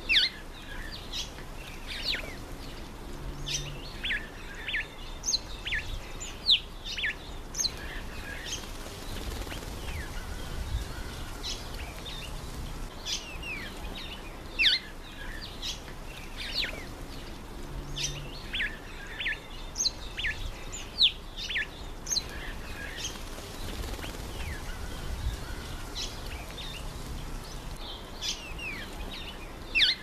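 Garden birds giving short, sharp chirps, each a quick downward sweep, several every few seconds. Water splashes from a bird bathing in a birdbath come and go beneath them.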